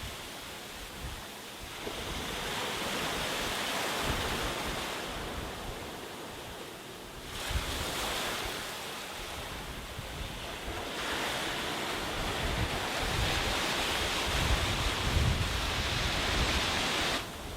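Sea waves breaking and washing on a beach, swelling and ebbing in surges, with wind buffeting the microphone as a low rumble.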